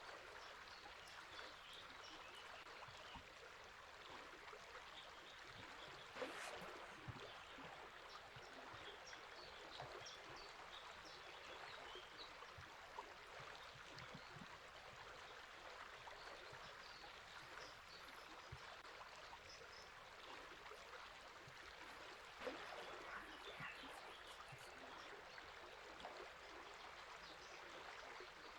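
River water running steadily, with faint, scattered bird chirps over it. Two brief louder surges of the water come about six seconds in and again about twenty-two seconds in.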